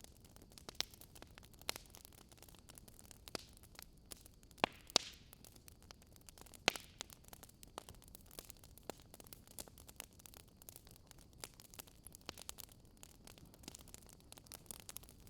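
Wood fire crackling: irregular sharp pops and snaps over a soft steady hiss, with a few louder pops about a third of the way in.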